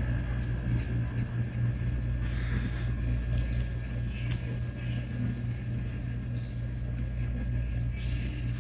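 A steady low hum, like an engine running, throughout, with a few faint short clicks around the middle.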